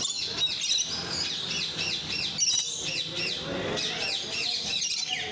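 A flock of parrots chirping and squawking together, a dense run of short rising-and-falling high calls overlapping one another. It stops abruptly at the end.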